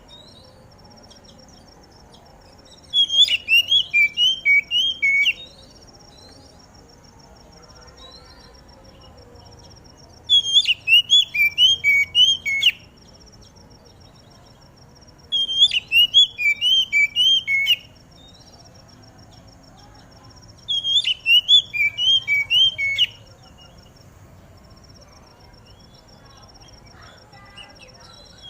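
Oriental magpie-robin singing: four phrases of quick, repeated whistled notes, each lasting about two seconds, with pauses of a few seconds between them.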